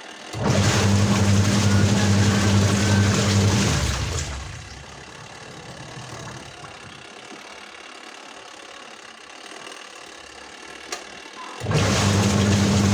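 Washing machine motor running in bursts, a steady mains hum with a rushing noise over it: it starts just after the beginning, stops about four seconds in, and starts again near the end, the on-and-off pattern of a wash cycle agitating the tub.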